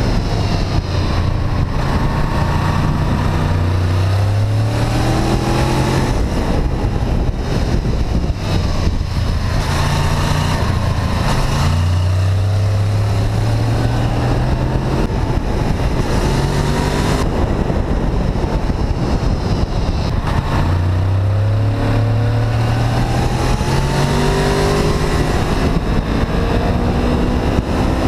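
Honda VFR800 V-Tec's V4 engine under way, its pitch rising in several pulls and falling back between them as it accelerates and shifts gears, over a steady rush of wind noise.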